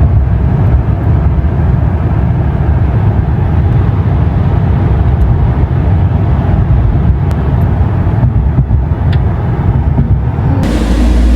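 Car on the move, heard from inside the cabin: a loud, steady low road and engine rumble. Near the end it cuts abruptly to a steadier low hum.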